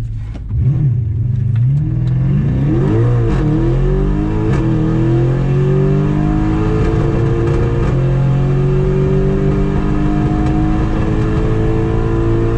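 Turbocharged Audi S6 engine accelerating hard. Its pitch climbs quickly over the first few seconds, breaks at two gear changes, then rises slowly and steadily through a long pull in a higher gear.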